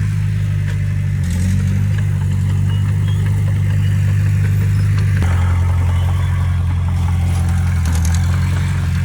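Diesel engine of heavy earthmoving machinery running steadily under load, a low drone that shifts slightly in pitch about a second in and again about five seconds in.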